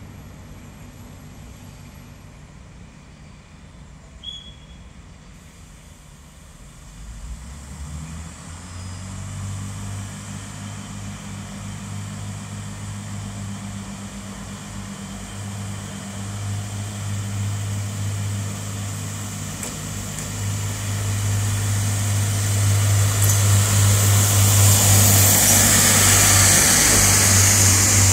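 Diesel multiple-unit train approaching: its engine drone starts about seven seconds in and grows steadily louder. Wheel and rail noise rises near the end as the train draws alongside.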